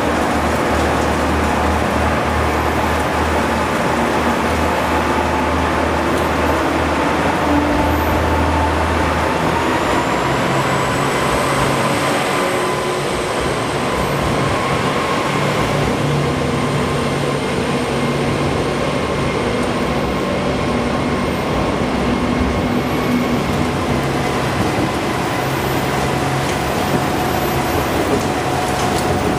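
Diesel railcar running along the station platform. Its engine hums steadily and low, then the note steps up in pitch about nine seconds in, and a thin high whine joins soon after.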